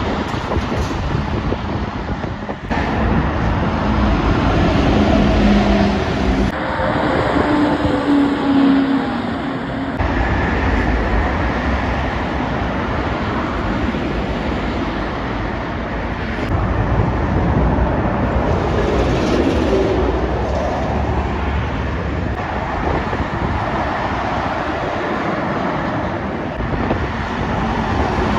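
Heavy trucks driving past on a main road, engine note and tyre noise rising and falling as each one passes, in several short clips cut together.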